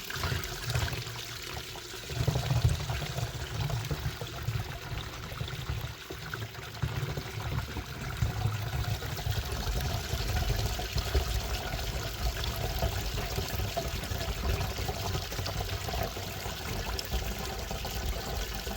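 Water running and splashing steadily, with a low rumble underneath.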